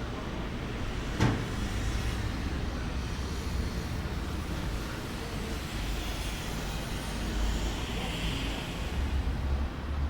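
Outdoor ambience: a steady low rumble like distant road traffic, with one sharp click about a second in.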